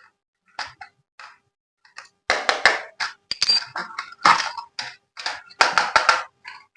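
Handling noises: a run of sharp clicks and short crackling, rustling bursts, sparse at first and thick and loud from about two seconds in.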